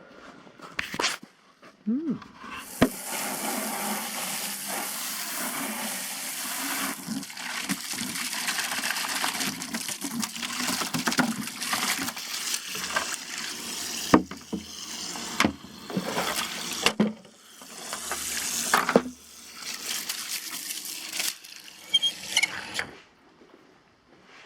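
Water running hard into a container, as when filling a bucket or trough, stopping and starting a few times, with scattered knocks of the container in between.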